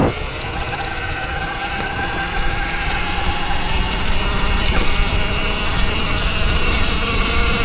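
Electric dirt bike on the move: the motor's high whine, a few steady tones drifting slightly in pitch with speed, over a low rumble of wind and tyres on dirt.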